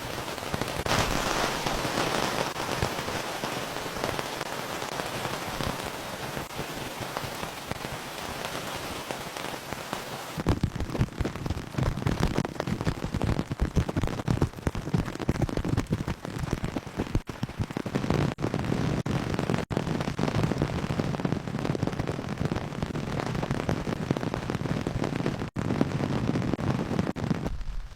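Steady rain falling. About ten seconds in, the sound changes: the high hiss drops away and a denser, lower pattering of drops takes over.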